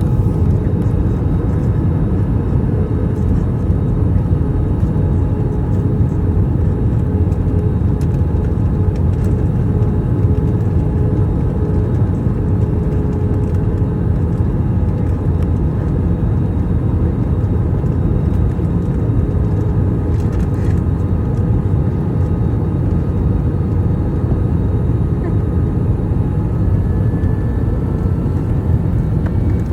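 Steady low cabin rumble inside an Airbus A321 on final approach: airflow and its IAE V2533-A5 turbofan engines heard through the cabin, with a few faint steady tones above the rumble.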